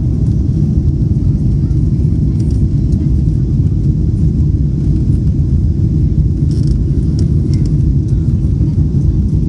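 Airliner cabin noise during takeoff: a steady, loud low rumble of engines and airflow heard from inside the cabin, with a few brief faint rattles about two and a half seconds in and again around seven seconds.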